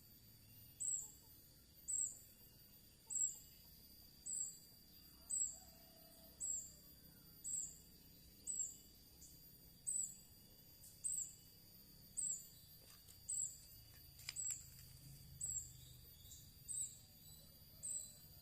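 A bird's short, high chirp repeated very regularly, about once a second, over a faint background.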